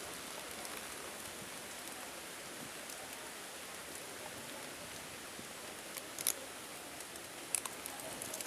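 Light to moderate rain falling, a steady hiss picked up by an Akaso Brave 7LE action camera's built-in microphone. A few short sharp ticks stand out in the second half.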